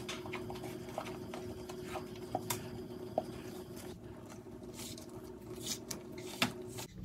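Silicone spatula scraping thick batter from a glass bowl into a metal springform pan and spreading it, with a few light clicks and taps of utensil on bowl and pan. A steady low hum runs underneath.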